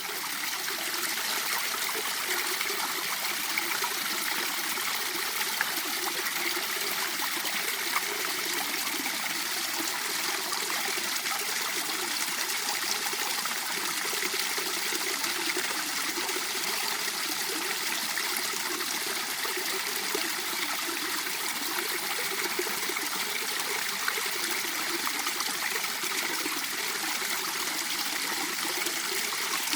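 Mountain stream water flowing and trickling over rocks, a steady burbling rush.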